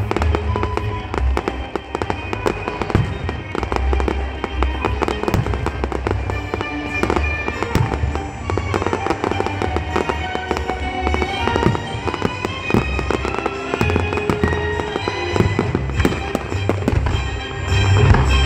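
Dense fireworks display: rapid, overlapping bangs and crackling from many shells bursting at once. Music plays underneath throughout.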